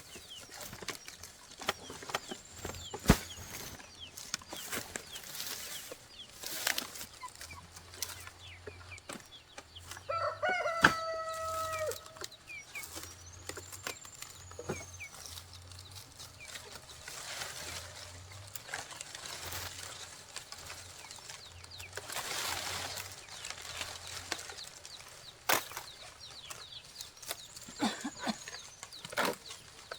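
A rooster crows once about ten seconds in, with chickens calling around it, and another crow begins near the end. Scattered sharp knocks and clatter of work on the house run through.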